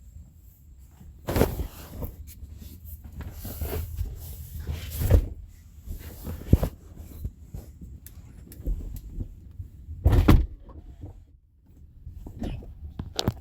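Several irregular thuds and knocks with rubbing, handling-type noise and low rumble in between; the loudest thuds come about a second in, around five seconds in and around ten seconds in.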